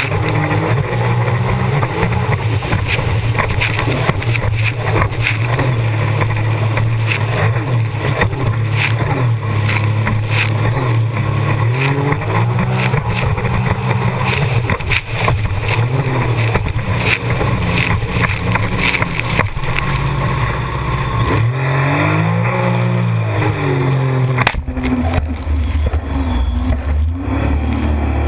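Jet ski engine running hard, its note rising and falling as the throttle changes, under a constant rushing noise with frequent short knocks. About three-quarters of the way through, the note drops lower.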